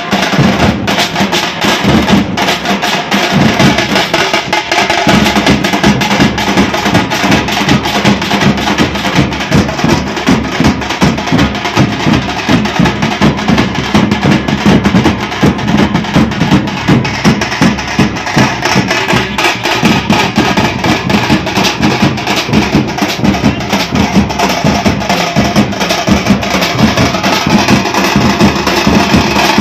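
A drum troupe playing a loud, fast, driving rhythm of dense drum strokes without a break.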